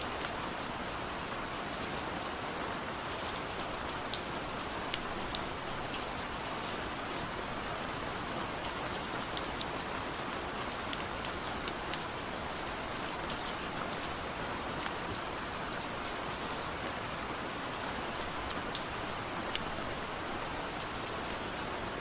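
Steady rain falling on a surface, an even hiss with many scattered sharp drop impacts throughout.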